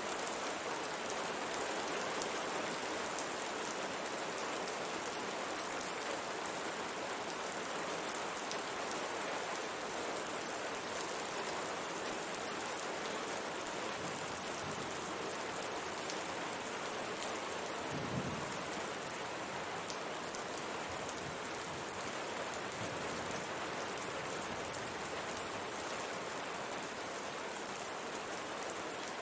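Steady rain pattering on window glass, a dense even hiss with individual drops ticking through it. About two-thirds of the way in there is one brief low thump.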